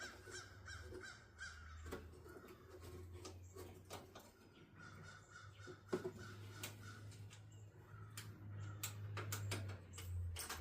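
Scattered sharp clicks and knocks of parts and hand tools being handled while a part is refitted to a riding mower, over a low steady hum. Repeated harsh calls like a crow cawing come and go in the background.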